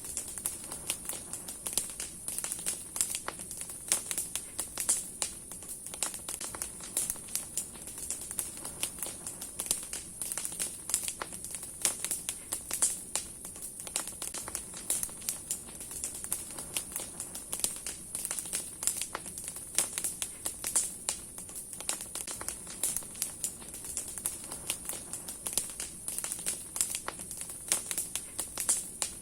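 Large wood bonfire burning, with dense irregular crackling and popping from the burning logs and branches.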